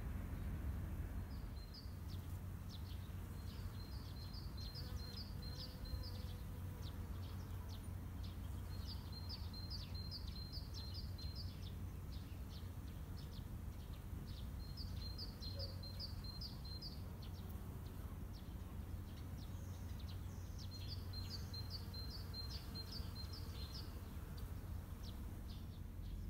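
A small songbird singing a short phrase of quick, evenly spaced high notes, repeated every few seconds, over a steady low rumble.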